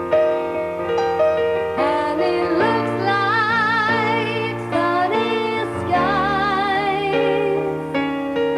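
A band playing a slow ballad: keyboard or piano chords under a held melody line that wavers with vibrato.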